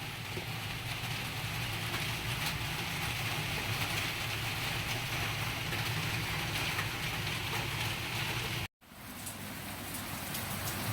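Steady rain falling, an even hiss with a low hum underneath. The sound cuts out for a moment about nine seconds in and fades back up.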